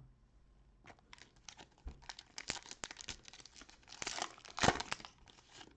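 Cellophane wrapper of a trading-card cello pack crinkling and tearing as the pack is opened by hand: a dense run of crackles, loudest near the end.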